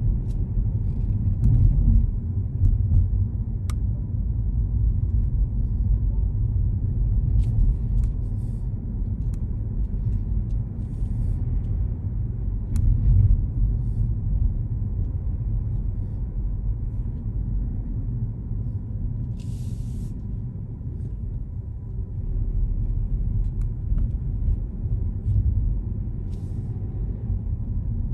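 Car driving on city roads: a steady low rumble of engine and tyres, with faint clicks and a short hiss about twenty seconds in.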